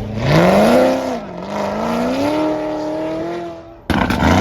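Car engine accelerating hard. The revs climb, drop at a gear change about a second in, then climb steadily again through the next gear. Near the end a sudden loud burst of noise cuts in.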